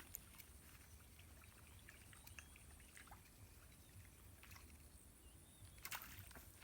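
Near silence: faint outdoor ambience with scattered faint ticks, a few slightly louder ones about six seconds in.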